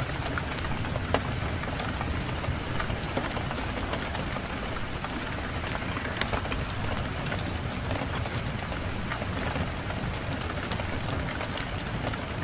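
Fireplace wood fire crackling, with irregular sharp pops, the loudest about a second in and again near six and eleven seconds. Under it runs a steady low rumble of wind.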